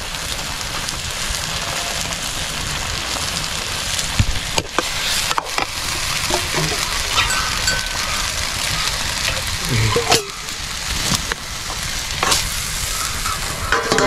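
Potato strips sizzling in a wok over a wood fire, a steady frying hiss with a few sharp clicks of the ladle and pan.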